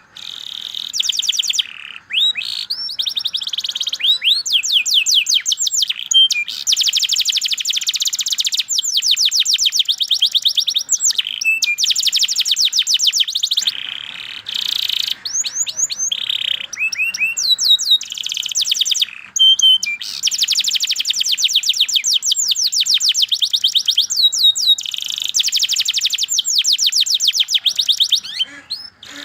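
Domestic canary singing a long, fast song: rapid trills of repeated chirps in long rolls, broken by brief pauses and a few swooping notes.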